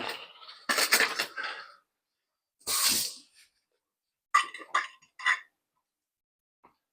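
Clinks and clatter of a utensil against dishes as food is served onto a plate, in a few short bursts, with a brief hissing burst about three seconds in.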